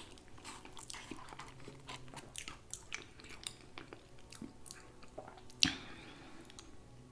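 Close-up mouth sounds of eating: chewing and biting with wet smacks and crackly crunches of fried chicken, and one sharper crunch about five and a half seconds in.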